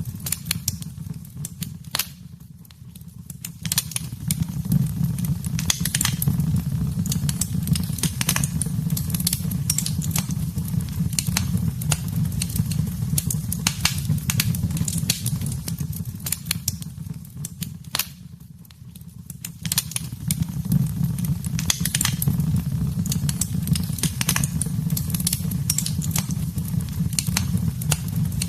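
Wood fire in a fireplace crackling, with frequent sharp pops and snaps over a steady low rumble of the flames. It goes briefly quieter twice, about two and eighteen seconds in.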